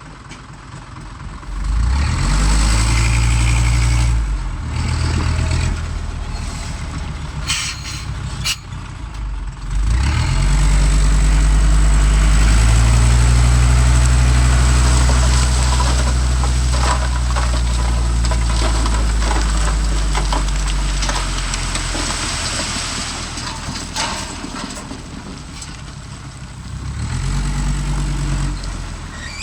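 Heavy diesel engine revving up hard three times, holding high revs under load for several seconds each time and then slowly dropping back. Scattered metallic clanks and squeaks come over the engine.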